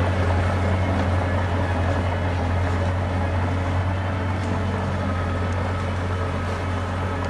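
Heavy diesel engine of earthmoving machinery running steadily with a deep, even drone, easing off slightly near the end.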